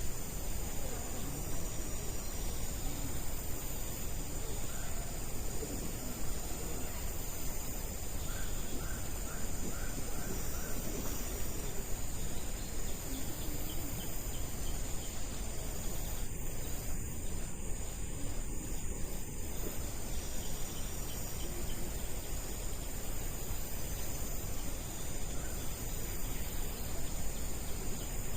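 Steady, high-pitched insect chorus of crickets, shrilling without pause over a constant background hiss. A short run of quick chirps comes about a third of the way in.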